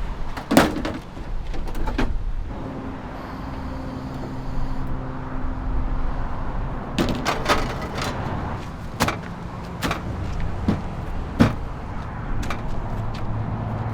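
Several sharp knocks and clunks of gear being handled over a steady low rumble of passing road traffic, with a brief steady hum about three seconds in.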